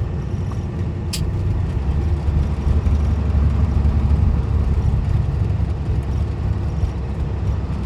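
Peterbilt 379's Cat C-15 diesel engine running steadily as the truck cruises down the highway, a low, even drone. A single sharp click about a second in.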